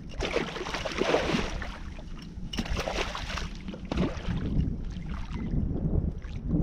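Water splashing in bursts, about the first second and a half and again around the middle, as a hooked catfish thrashes at the surface beside a boat, over a steady low rumble of wind on the microphone.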